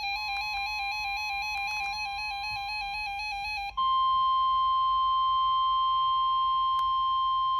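A weather radio's electronic alert beeps in a fast warbling pattern over a faint steady tone. About three and a half seconds in, the beeping stops and the NOAA Weather Radio 1050 Hz warning alarm tone sounds alone, loud and steady, signalling that a warning message follows.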